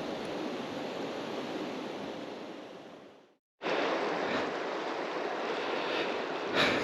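Steady rush of flowing river water. It fades out about halfway through, stops for a moment, then starts again.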